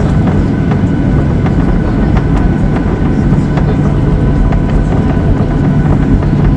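Steady rumble of an airliner cabin with the jet engines running, with a faint steady whine on top and scattered light knocks.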